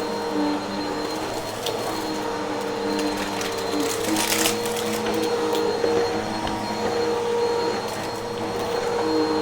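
Upright vacuum cleaner running with a steady motor hum, with scattered clicks and a burst of crackling about four seconds in as debris rattles up through it.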